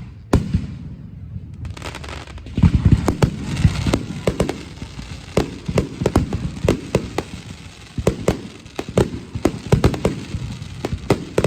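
Aerial fireworks going off in quick, irregular succession: many sharp booms overlapping, with a dense crackle that thickens about two seconds in.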